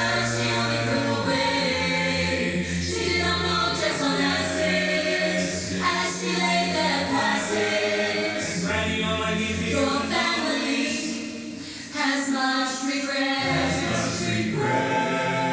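Choral music: voices singing held chords without clear words, dipping briefly about eleven seconds in and then coming back in full.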